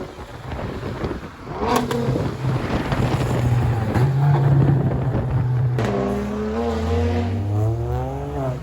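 Car engine running at steady revs, then accelerating hard with its pitch climbing from about six seconds in. Two sharp pops cut through, one near two seconds in and one just before the climb.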